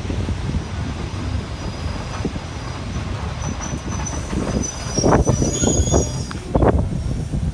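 Passenger train braking into a station: steady rumble of wheels on the rails, with a thin high squeal from the wheels and brakes in the middle, and a few loud thumps towards the end as it comes nearly to a stop.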